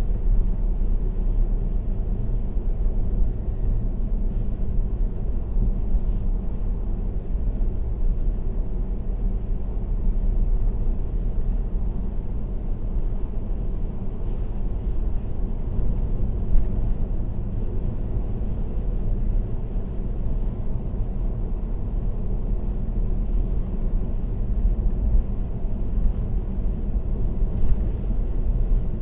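Steady road and tyre noise of a car cruising on an expressway: a constant low rumble, with two short thumps, one about halfway through and one near the end.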